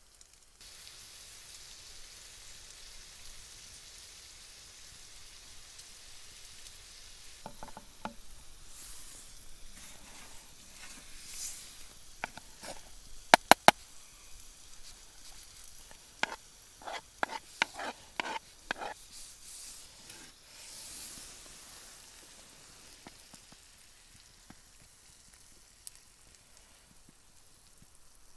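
Stir-fry sizzling steadily in a pan on a wood stove. Through the middle, a utensil knocks and clicks against the pan in a few sharp strikes, some of them ringing briefly.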